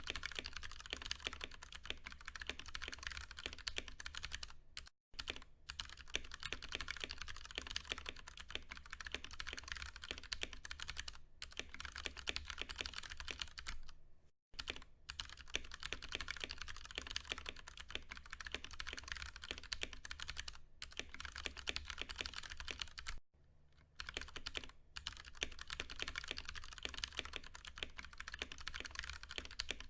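Continuous fast typing on a Ducky One 2 Mini mechanical keyboard with Cherry MX Brown tactile switches: a dense stream of key clicks. The typing stops briefly three times, about 5, 14 and 23 seconds in.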